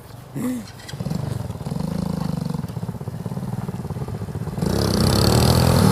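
Motorcycle engine running and drawing nearer, growing louder, with a sharp rise in level about four and a half seconds in as it comes close.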